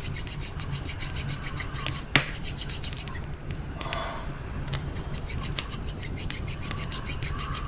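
Hands rubbing briskly back and forth for warmth, a scratchy friction sound, over the steady crackle and pops of a campfire.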